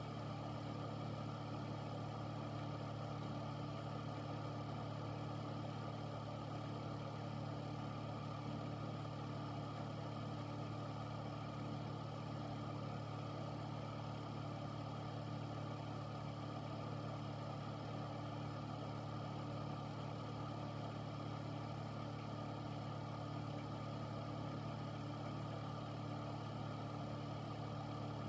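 Air filter's fan running steadily: a constant low hum under an even rush of air.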